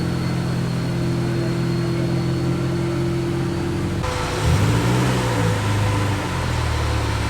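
Car engines running. The sound changes abruptly about four seconds in, then an engine revs up briefly and settles back to a steady idle.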